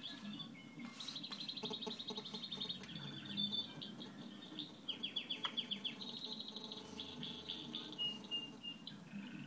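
Songbirds singing, played back through computer speakers from a bird video: fast high trills, a run of quick falling notes, then a short held whistle near the end, over a low steady hum.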